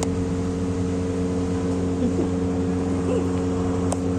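A motor running steadily with a constant hum, with a sharp click right at the start and another near the end.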